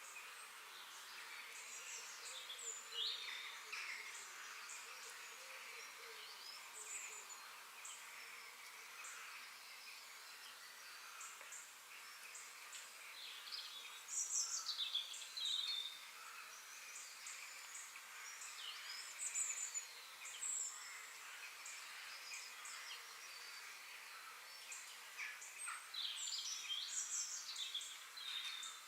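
Forest ambience: many small birds chirping and twittering over a steady high hiss of insects, with busier, louder bursts of calling about halfway through and again near the end.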